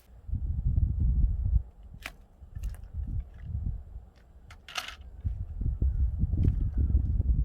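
Wood fire burning in a traditional Korean firebox: a few sharp crackles and pops from the burning kindling over a loud low rumble that comes and goes.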